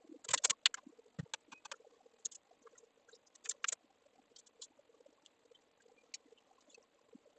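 Computer keyboard keystrokes and clicks: a quick run of keypresses just after the start, scattered single taps, another couple of sharp clicks around three and a half seconds in, then only sparse faint ticks over a faint steady hum.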